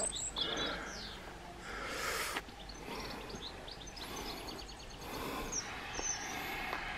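Small birds chirping, with a quick run of repeated notes about four seconds in. A short hiss about two seconds in cuts off sharply.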